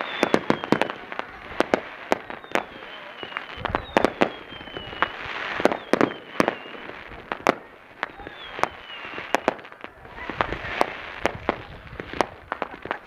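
Fireworks display: a rapid string of sharp bangs from bursting shells with crackling between them, and several short falling whistles.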